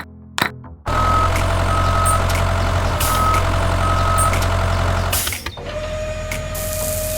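Vehicle engine running with a reversing alarm beeping four times at an even pace. About five and a half seconds in, the beeping has stopped and the engine settles to a quieter steady hum with a high hiss.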